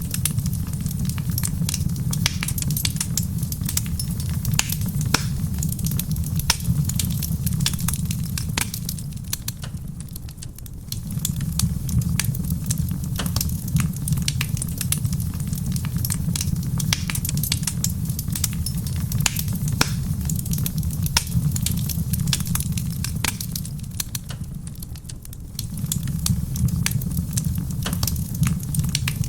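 Wood fire crackling, with frequent sharp pops and snaps over a soft patter of rain and a steady low rumble. The rumble drops away briefly twice.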